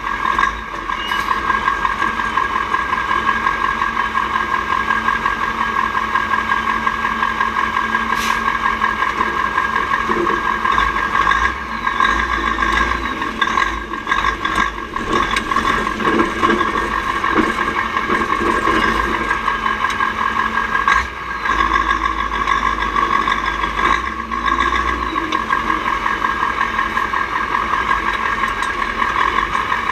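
Mack R-series V8 diesel truck engine running steadily, with a few brief dips in level along the way.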